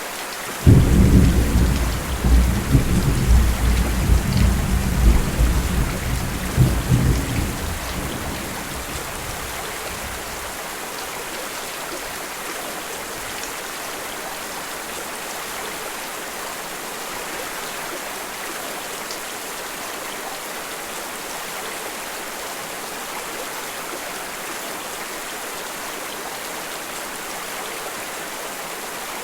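Steady rain hiss, with a peal of thunder breaking in about half a second in: a deep rumble that rolls in several waves and fades out after about eight seconds, leaving the rain alone.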